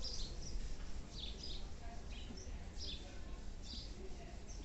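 Small birds chirping: short, high, downward-sliding notes every half second or so, over a steady low background rumble.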